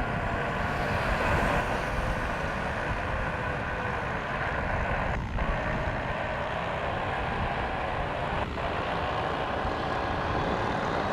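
Embraer Praetor 500 business jet's twin turbofans running: a steady rush of jet noise with a whine of several slightly wavering tones through it.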